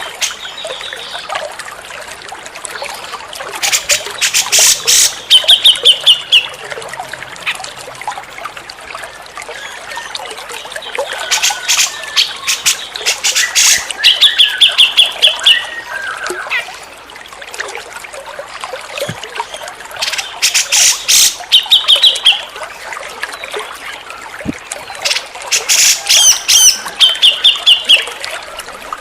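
Grey-cheeked bulbul (cucak jenggot) calling: loud harsh chattering bursts, each followed by a quick trilled run of notes, the phrase coming back about every eight seconds. A steady trickle of water runs underneath.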